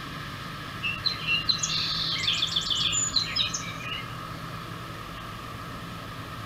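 A songbird singing one quick phrase of rapid high notes, starting about a second in and lasting about three seconds, over a steady background hum.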